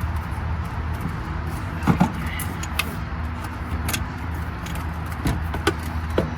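Clicks, knocks and rattles of a heavy power cord and its plug being handled and pushed into a tight opening on a cord reel, over a steady low hum.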